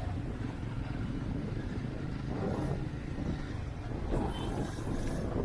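Motorcycle engine running steadily on the road, a low rumble with road noise.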